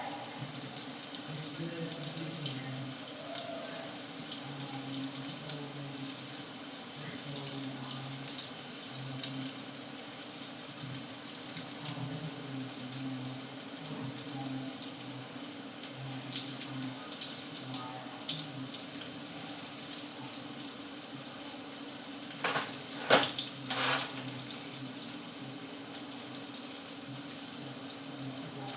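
Battered eggplant nuggets frying in hot grapeseed oil: a steady sizzle with scattered small pops. A few sharp knocks about three-quarters of the way through are the loudest sound.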